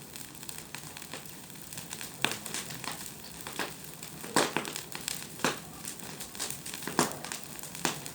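Bonfire burning with a steady crackle and several sharp pops.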